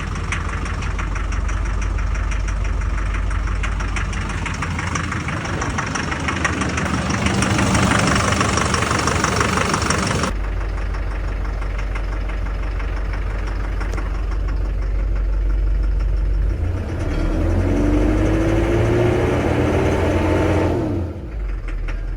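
2005 GM Duramax LLY 6.6 L V8 turbodiesel running with a steady diesel clatter. The sound changes abruptly about ten seconds in, and a rising tone comes in near the end.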